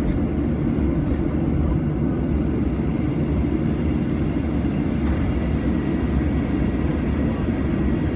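Steady low rumble of a Boeing 737-700 airliner heard inside the cabin on the ground after pushback, with a faint steady high tone over it.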